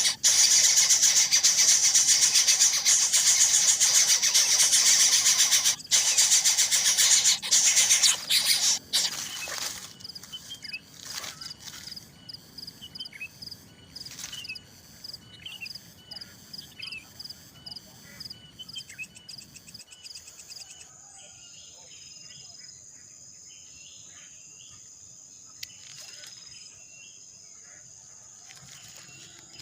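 Nestling birds begging in a loud, rapid, hissing chorus for about nine seconds, then breaking off into scattered short chirps. A steady high-pitched insect drone carries on through the quieter second half.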